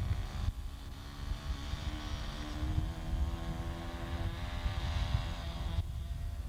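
Small engine of a radio-controlled model airplane buzzing in flight, its pitch shifting slightly as it flies, with wind rumbling on the microphone. The sound breaks off abruptly about half a second in and again near the end.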